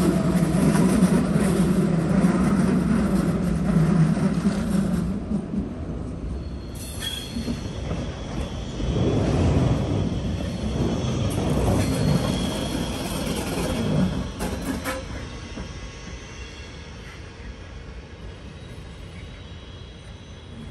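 Electric trains running past on the tracks: an S-Bahn electric multiple unit with a loud low rumble and steady hum for the first five seconds, then a second train rolling by with wheel rumble and a faint high wheel squeal, fading off after about fifteen seconds.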